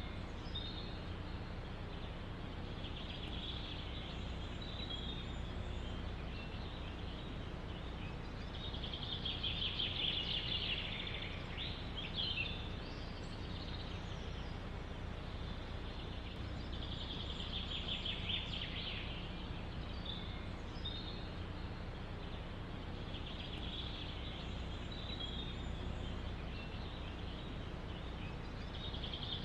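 Songbirds singing bursts of rapid, high-pitched trilled song every several seconds over a steady low rush of wind through a forest.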